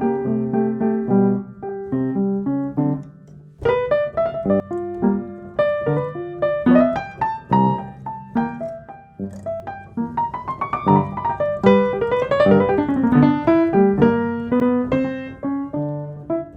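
Background music: piano playing a calm melody of single notes and chords, with a short pause about three and a half seconds in.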